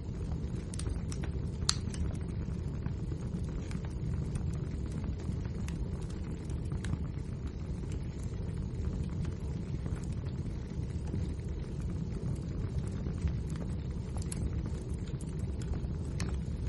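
Wood fire burning in a fireplace: a steady low rumble of the flames with frequent small sharp crackles and pops from the burning logs.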